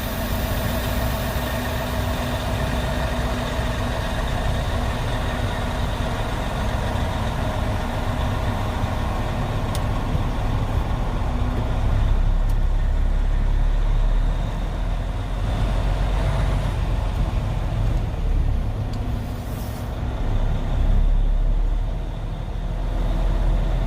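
Semi-truck's diesel engine running as the tractor moves, a steady low rumble that swells louder a couple of times.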